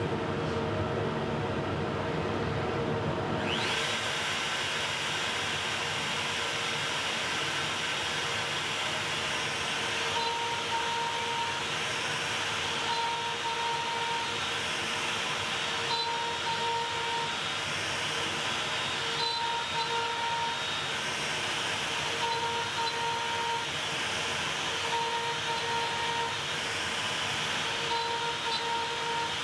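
Makita router on a Onefinity CNC machine spinning up with a rising whine about three and a half seconds in, then running steadily over a constant background hum. A higher tone comes and goes about every three seconds.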